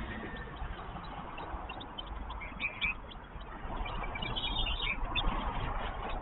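Short, high bird chirps in small clusters, about two and a half seconds in and again about four seconds in, over a steady rushing background that swells about four seconds in.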